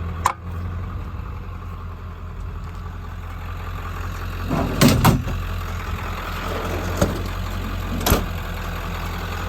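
Ford F350's 7.3-litre turbo diesel V8 idling steadily, with a sharp click near the start, a short cluster of clunks about five seconds in (the loudest sounds), and two more clicks later.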